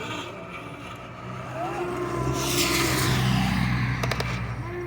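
A motor vehicle passes close by: its engine hum and hiss swell about two seconds in and then fade, with a few sharp clicks near the end.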